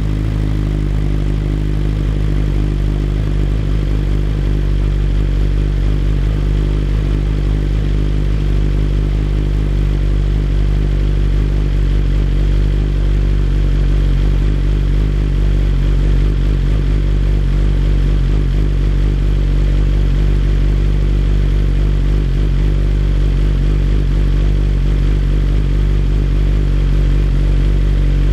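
BMW S1000RR's inline-four engine idling steadily, loud, with a low, even tone.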